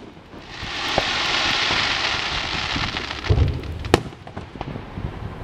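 Aerial fireworks: a sharp bang right at the start, then a dense crackling hiss that swells and fades over about three seconds, like rain. Single sharp cracks come about a second in and again near four seconds, with a low boom just before the second crack.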